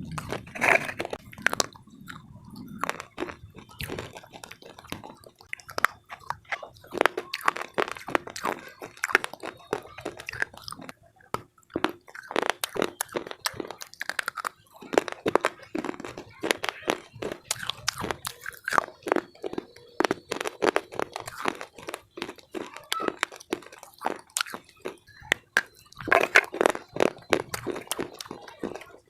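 Slate pieces (cubes and bars) being bitten and chewed: many sharp crunches in quick runs, with a few brief pauses.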